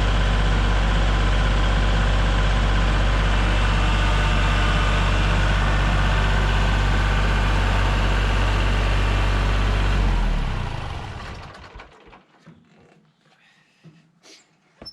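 Engine idling steadily, then shut off about ten seconds in, dying away over a couple of seconds, followed by a few faint knocks.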